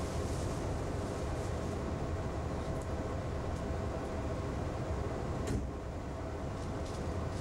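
Steady low rumble and hum inside a passenger car of a JR 381 series limited express train as it moves slowly along the platform. A single sharp click about five and a half seconds in.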